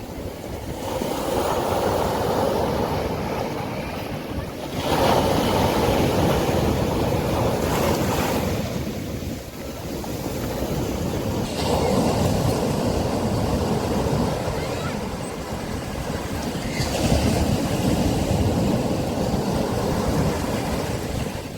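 Sea waves breaking and washing up a sandy beach: a continuous surf rush that swells and falls back about four times, each surge lasting a few seconds.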